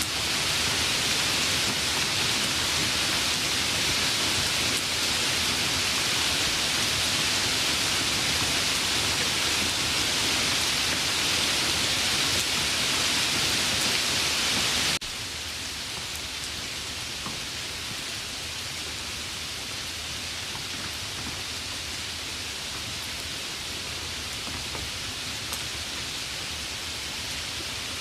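Steady rain falling as an even hiss; about halfway through it cuts abruptly to a quieter, lighter rain with a few distinct drops audible.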